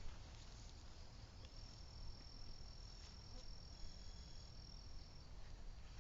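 An insect trilling faintly: one steady high note lasting about four seconds, over a low hiss.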